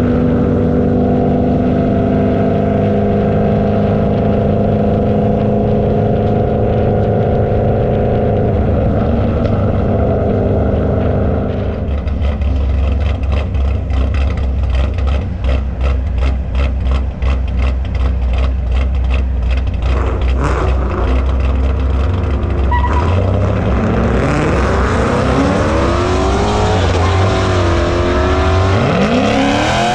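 Drag-race car engines. A steady engine drone runs for about the first twelve seconds, then gives way to a choppy, rapidly pulsing engine note. Near the end an engine revs up in rising and falling sweeps of pitch as it accelerates.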